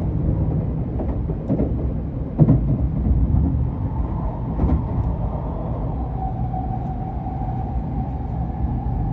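Nozomi Shinkansen train running with a steady low rumble, a few short knocks in the first half and a steady whine in the second half.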